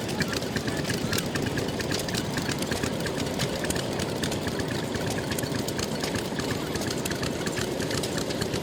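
Vintage stationary engines running steadily at idle, a dense stream of fast, irregular mechanical ticks and knocks.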